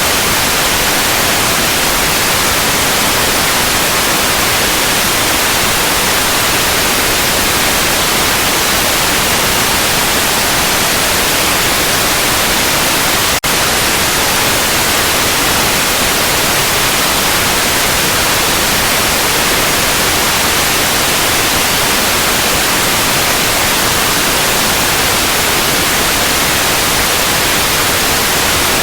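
Steady electronic white noise: an even, loud hiss across all pitches, broken by a momentary dropout about 13 seconds in.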